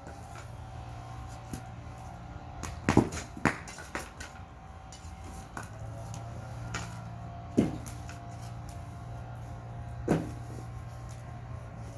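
A few sharp knocks or pops, two close together about three seconds in and others near the middle and toward the end, over a steady low hum with faint small clicks.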